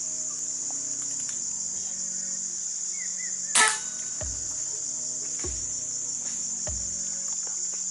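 A single sharp rifle shot about three and a half seconds in, over a steady high-pitched buzz of crickets and cicadas. A few dull low thumps follow, about a second apart.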